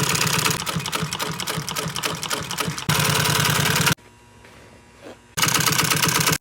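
Sewing machine stitching in rapid needle strokes, stopping about four seconds in and starting again about a second and a half later.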